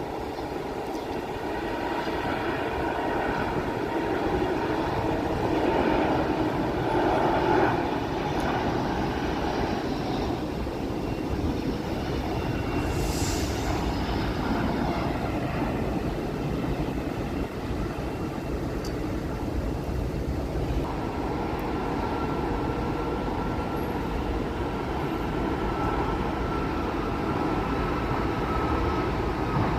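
Jet airliner engines running steadily: a continuous low rumble with whining tones over it, and a thin higher whine coming in about two-thirds of the way through.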